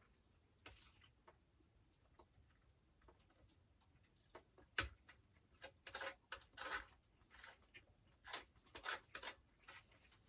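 Quiet handling noises: scattered soft clicks and rustles, with one sharp click about five seconds in and a run of rustling between about six and nine and a half seconds.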